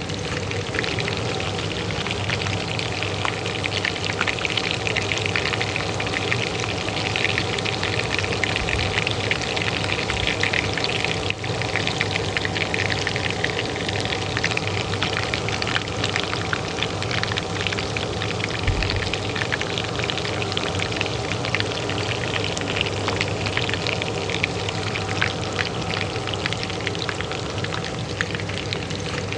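Hot oil sizzling in a pan with a dense, even crackle of tiny pops, over the steady hum of a kitchen range hood fan.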